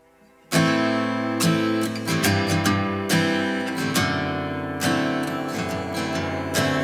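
Background music: acoustic guitar strumming chords, starting suddenly about half a second in after a moment of near silence.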